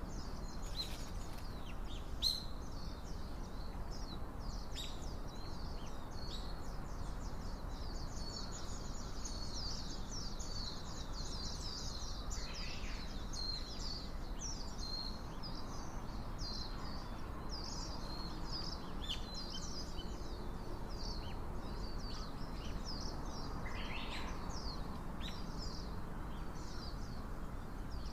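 Small birds chirping, many short high calls following one another almost without pause, over a steady low background noise. A single sharp click about two seconds in.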